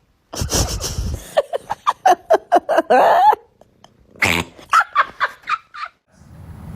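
A dog vocalizing in two quick runs of short, high yips.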